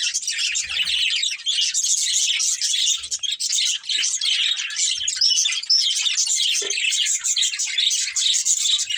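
Several budgerigars chirping and chattering together in a continuous, busy stream of short high chirps and warbles.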